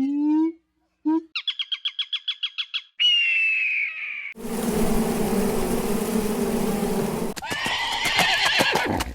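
A quick succession of different animal calls: a few short low calls, a fast trill of high chirps, a falling whistled call, then a long harsh call followed by a rapid rattling chatter near the end.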